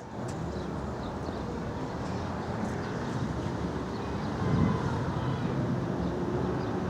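Steady low outdoor background rumble with a faint hum, and no distinct events.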